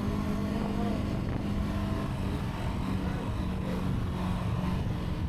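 Zontes 125 motorcycle's single-cylinder engine running at a steady speed while riding, a held hum under a dense low wind rumble, picked up by the camera's built-in microphone.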